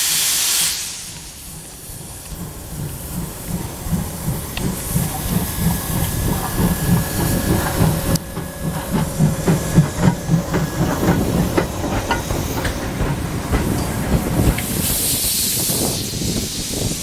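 Steam locomotive pulling away: a loud blast of steam hiss cuts off about a second in, then the exhaust beats and clanking of the running gear build up as the train gets moving, with another burst of steam hiss near the end.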